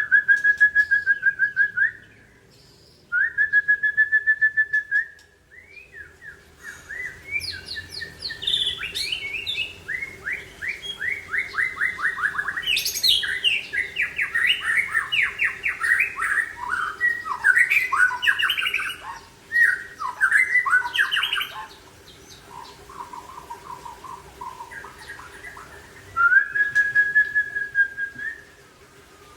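A white-rumped shama (Aceh murai batu) singing. It opens with two clear, steady held whistles, then gives a long fast run of varied, falling notes through the middle, then lower notes, and ends with another held whistle. A faint steady hum lies underneath.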